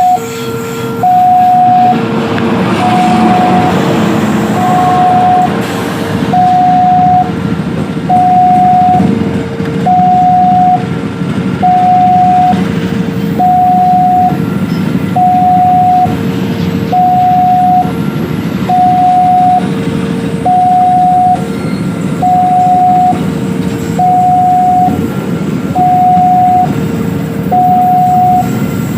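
Railway level-crossing warning alarm sounding an electronic two-tone ding-dong, a higher and a lower tone alternating evenly about once a second, over a steady low rumble.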